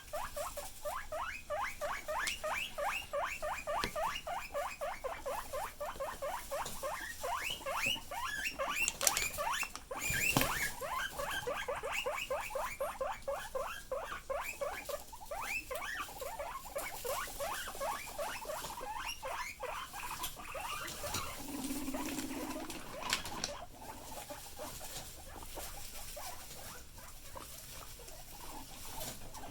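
Guinea pigs wheeking: a long run of short rising squeals, about four a second, fading out over the last third. Two sharp knocks come about nine and ten seconds in.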